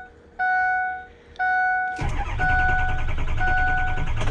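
A truck's warning chime dings about once a second. About two seconds in, the engine starts at once and settles into a steady run, with the chime still sounding over it.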